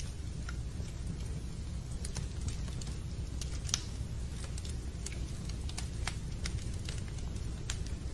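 Fireplace fire crackling: irregular sharp pops and snaps over a steady low rumble, with one louder pop near the middle.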